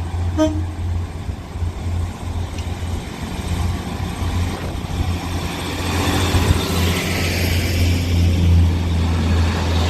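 Northern Class 156 and Class 150 diesel multiple units departing: a steady low diesel engine drone, with engine and wheel noise growing louder in the second half.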